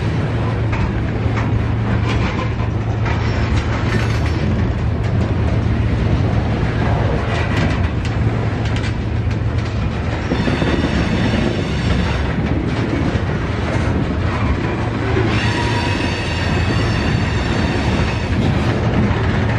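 Freight train's railcars rolling past on steel wheels, a steady loud rumble with rail clatter. Twice a high-pitched wheel squeal rises over it, about halfway through and again near the end.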